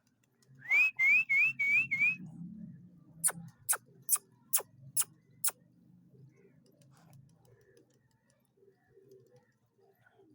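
A person whistles five quick rising notes, a pigeon keeper's call to his flock. Six sharp clicks follow about half a second apart, over faint low cooing of pigeons.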